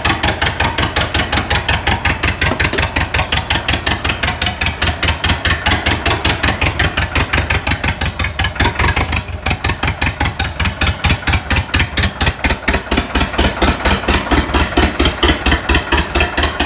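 International 844 tractor's diesel engine on a cold start, turning over with an even knocking beat of about five or six pulses a second, dipping briefly a little past halfway.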